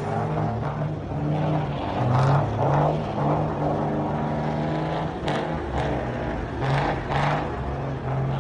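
A heavy vehicle's engine running steadily, with about half a dozen short, sharp bursts of noise over it.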